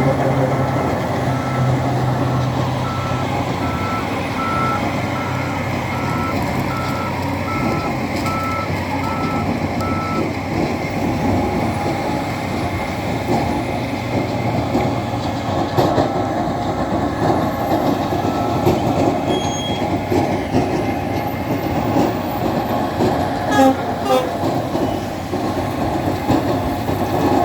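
Shovel loader's engine running steadily under work, with its reversing alarm beeping at an even pace, a little under two beeps a second, for the first ten seconds. A few sharp knocks come later on.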